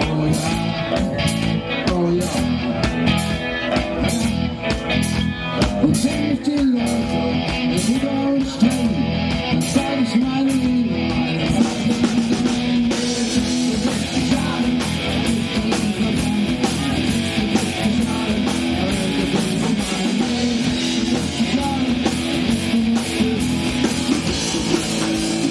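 Live rock band playing an instrumental passage: an electric guitar melody with bent notes over bass and drums. The cymbals turn from steady ticks to a denser wash about halfway through.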